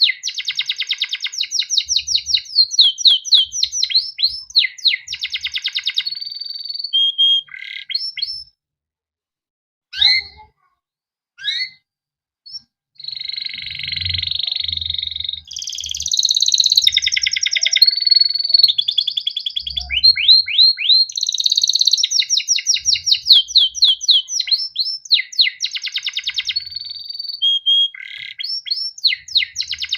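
Male domestic canary singing a long song of fast chirping trills, quick repeated notes, and a few held rolling notes. It breaks off for a few seconds near the middle before starting again.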